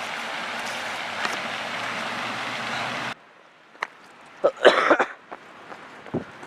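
A steady hiss that cuts off abruptly about three seconds in. After a few light clicks, a person gives a short, loud cough about a second and a half later.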